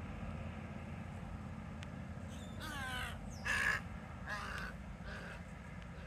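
A bird calls four times in quick succession in the second half, the third call loudest, over a steady low background noise.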